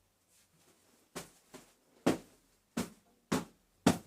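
Chairs being moved and set down on the floor: a series of about six sharp knocks at irregular intervals, starting about a second in.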